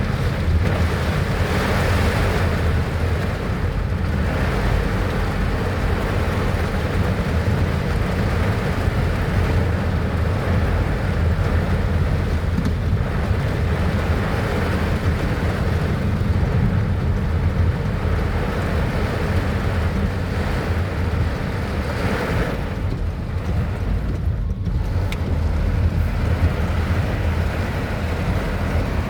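Heavy rain and strong wind, with steady wind rumble buffeting the microphone over an even hiss of rain.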